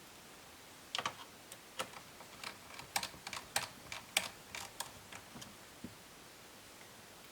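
A run of irregular light clicks and taps of small hard plastic and metal laptop parts being handled, starting about a second in and dying away near the end.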